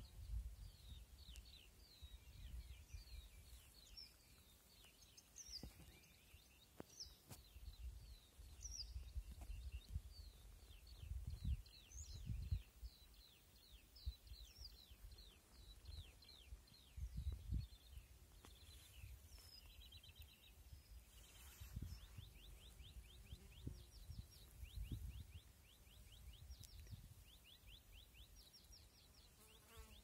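Small birds singing faintly, short chirps and rapid trills repeating, over a low uneven rumble that comes and goes.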